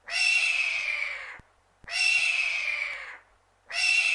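Hawk screaming: hoarse, slightly falling cries, each about a second and a half long, repeated three times with short gaps between them.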